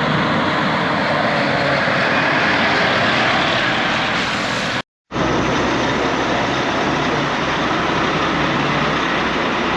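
Lorry on the move: a steady mix of engine and road noise with no change in pitch. It breaks off for a moment about five seconds in, at an edit, then carries on the same.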